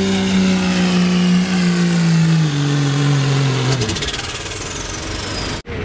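Diesel pickup truck engine at full throttle pulling the sled. Its note sags lower in steps and then cuts off about four seconds in, leaving the turbocharger's high whistle winding down.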